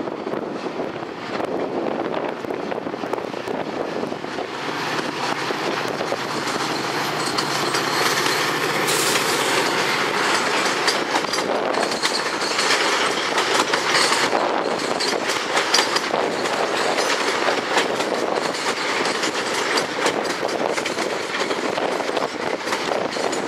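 A Metra commuter train rolling past, with a steady rumble of the moving cars and the wheels clicking over rail joints and switches. The clicking grows busier about halfway through.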